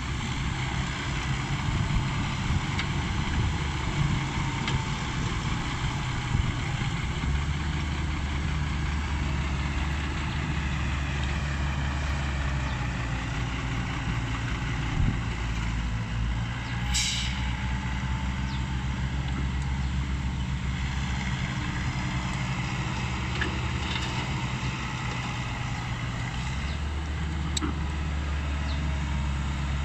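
Komatsu excavator's diesel engine running steadily while it works, its low note shifting every few seconds. There is a short hiss about halfway through and a few sharp clicks.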